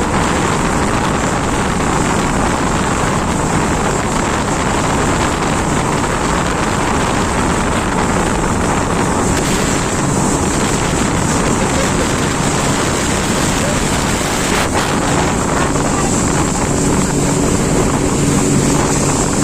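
Jet ski engine running steadily on the water, with a constant rush of wind on the microphone and water spray. From about three-quarters of the way in, a steady engine hum stands out more clearly.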